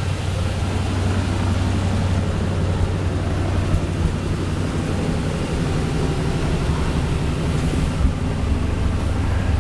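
Plymouth 'Cuda 340 V8 in a Ford F1 pickup, idling steadily with its exhaust running through Cherry Bomb mufflers.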